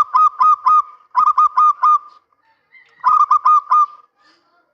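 Male zebra dove (perkutut) cooing in rapid strings of short, clipped notes. There are three phrases of about five notes each, with the last one about three seconds in.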